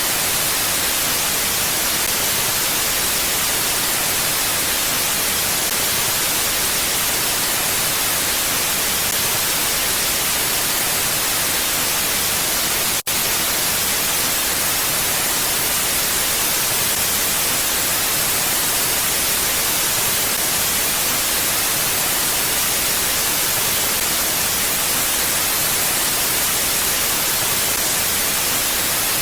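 Steady, even wind-like hiss from an ambient wind track, heaviest in the upper range, with no gusts or swells. It drops out for an instant about 13 seconds in.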